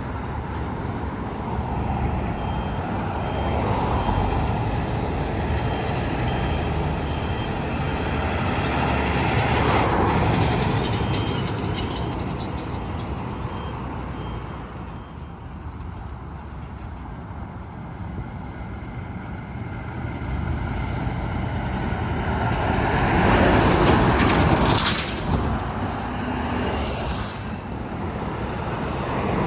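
Highway traffic with trucks driving past. One passes loudly about ten seconds in, and a louder one passes about two-thirds of the way through. A faint, evenly repeating high beep sounds through the first half.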